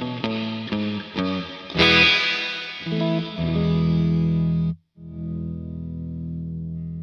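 Overdriven Fender Stratocaster played through a delay and reverb pedal into a Vox AC30 amp. Quick picked notes lead into a loud strummed chord about two seconds in, followed by ringing chords. The sound cuts out abruptly near five seconds, then a new chord rings and slowly fades.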